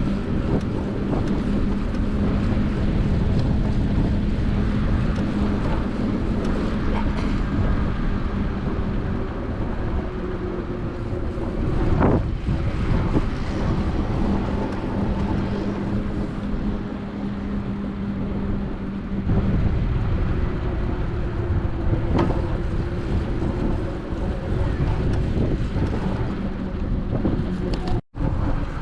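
Wind buffeting the microphone, a steady low rumbling noise, with a low steady hum coming and going underneath. The sound cuts out for an instant near the end.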